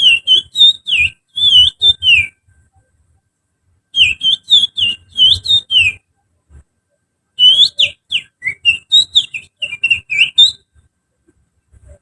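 Finger whistling imitating the song of an Oriental magpie-robin (kacer). It comes as three quick phrases of short, high notes that slide up and down, separated by pauses of a second or two.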